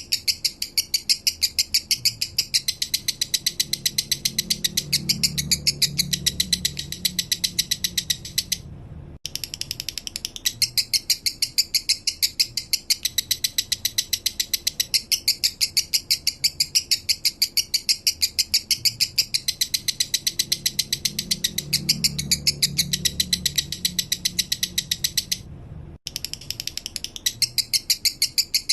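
Male lovebird singing its 'minor' song: a fast, even, ratchet-like chatter of high chirps that runs almost without pause. It breaks off briefly twice, about nine seconds in and near the end.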